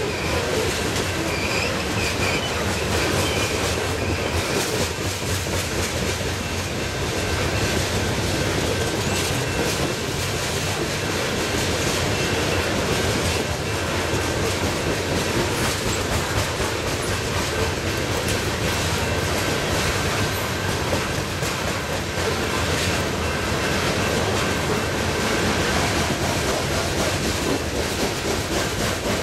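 Coal train's hopper cars rolling steadily past, their wheels clicking over rail joints, with a faint high steady squeal from the wheels.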